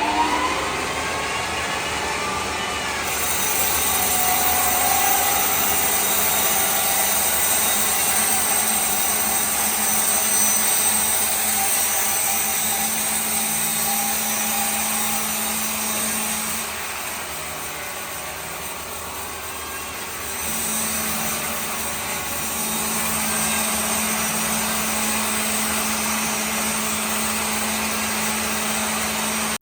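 Power tool working wood, running steadily with a noisy, high-reaching sound and a steady hum that drops out for a few seconds in the middle.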